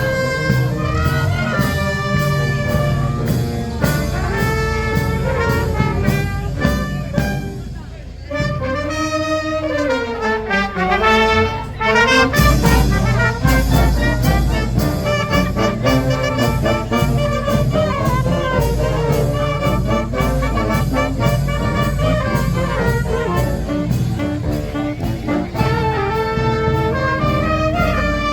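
Youth fanfare band of trumpets, trombones and drums playing a march tune to a steady beat. About eight seconds in the beat drops out and the horns play a sliding phrase that bends up and down, then the full band with drums comes back in louder about twelve seconds in.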